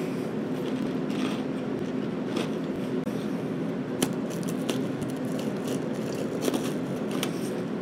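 A person chewing a mouthful of a Drumstick's chocolate cone, with a few sharp crunches, clearest in the second half, over a steady low hum.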